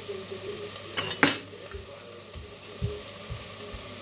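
Chopped onions frying and sizzling in a pan, with one sharp loud clatter about a second in and a few soft low knocks later.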